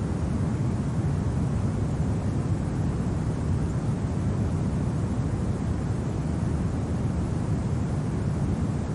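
Steady, deep wind noise of a winter ambience, even throughout, with no gusts, crackles or other distinct sounds.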